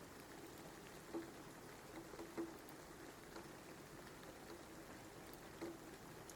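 Light rain falling steadily, with a few sharper taps of drops striking a surface.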